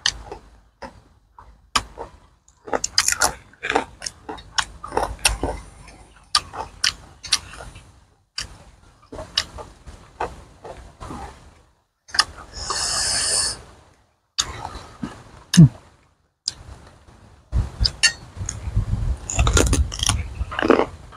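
Close-miked eating sounds: crunching and chewing crisp raw greens with wet mouth smacks, in short irregular bursts. A second-long crackling crunch comes just past halfway, and a single sharp knock, the loudest sound, comes about three quarters in.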